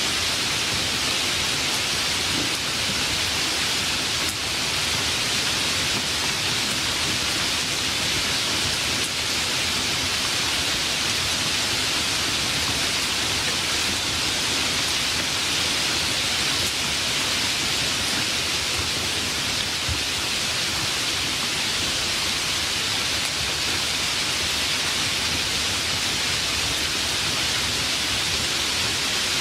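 Steady rainstorm, an even hiss of rain that holds level throughout.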